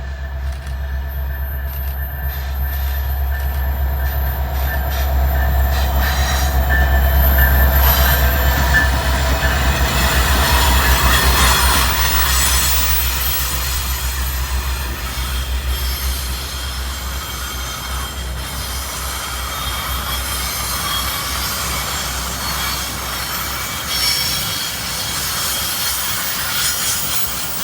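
Metra diesel commuter train passing: a deep locomotive engine rumble for about the first twelve seconds, then the cars rolling by with steady wheel noise and high thin squealing tones from the wheels.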